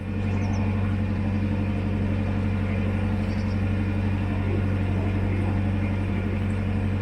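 Narrowboat's diesel engine running steadily at cruising speed, a constant low drone with a deep hum.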